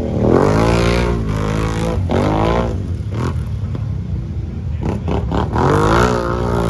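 Off-road vehicle engine revved hard three times, its pitch climbing with each rev over a steady low rumble.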